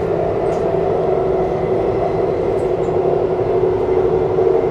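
Cabin noise of an RRTS electric rapid train running at about 110 km/h while accelerating: a steady hum over the rumble of the running gear.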